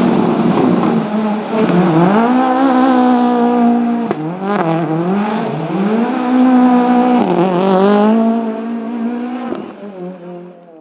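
Rally car engine revving hard under acceleration, pitch climbing and dropping sharply at each of several gear changes. There is a sharp crack about four seconds in.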